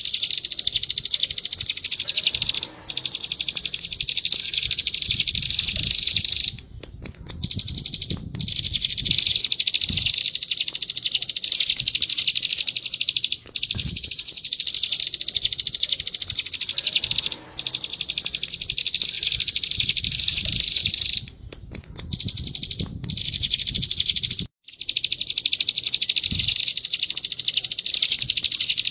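Bar-winged prinia (ciblek) singing continuously in a fast, high-pitched chattering stream, broken by a few brief pauses, including two near the middle and one later on.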